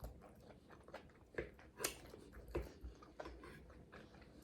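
Close-miked chewing and lip-smacking, with a few sharp wet mouth clicks in the middle, the loudest a little under two seconds in.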